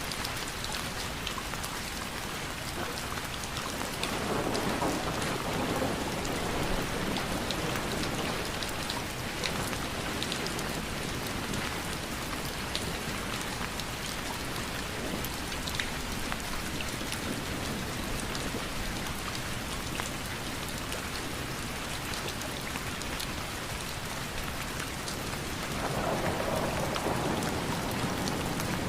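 Steady rain with the patter of many separate drops, and a low rumble of thunder swelling up twice: about four seconds in and again near the end.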